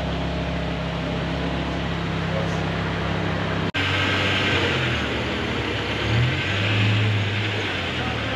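BMW E60 M5's 5.0-litre V10 running through an aftermarket Emil exhaust, idling steadily at first. After a sudden cut about three and a half seconds in, it is blipped in a few short revs.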